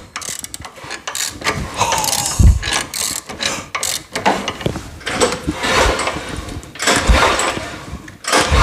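Recoil pull cord of a Craftsman two-stage snowblower engine yanked several times in a row, the engine turning over with a whirring rush on each pull without starting. The engine had been seized and has just come free after penetrating oil in the cylinder.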